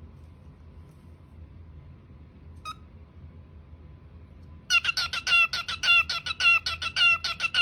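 Parrot making a rapid run of short, sharp repeated calls, about five a second, starting about five seconds in, after a single short call about three seconds in.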